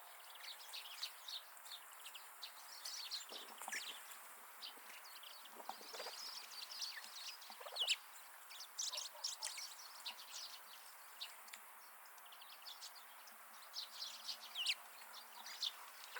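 Small wild winter birds chirping in many short, quick calls, mixed with a few lower calls from grey partridges, about three and a half, six and eight seconds in.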